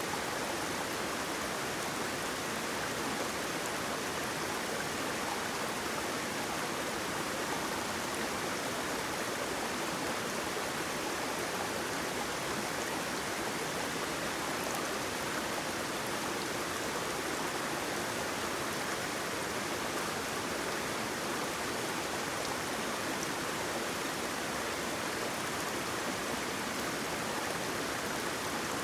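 Water rushing steadily over a waterfall, an even, unbroken wash of sound.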